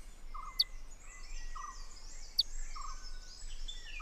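Kingfisher parents and fledglings calling to keep in contact: two sharp, very short high chirps, over a short low double note that repeats about every second, in a busy chorus of forest birds.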